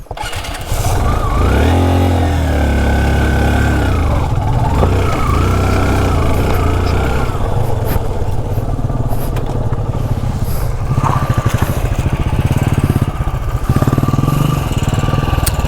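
Yamaha RX motorcycle's two-stroke single-cylinder engine running hard, jumping up about a second in, with the revs rising and falling over the next few seconds, then running on steadily with uneven throttle.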